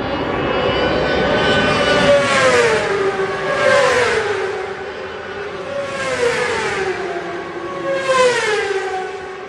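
1000cc superbikes racing past one after another, the engine note of each dropping in pitch as it goes by, about four passes.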